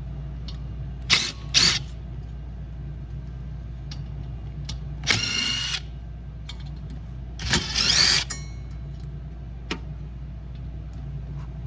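Short bursts of a cordless power drill/driver unbolting a diesel heater part: two quick blips about a second in, then two longer runs in the middle, the second one whining up in pitch. A steady low hum runs underneath.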